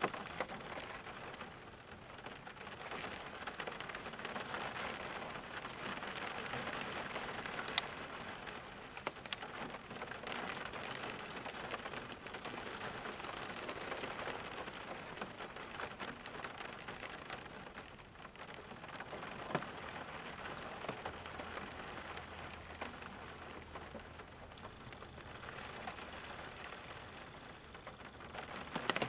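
Steady rain falling, an even hiss with a scatter of sharp drop impacts, a few of them louder single drips.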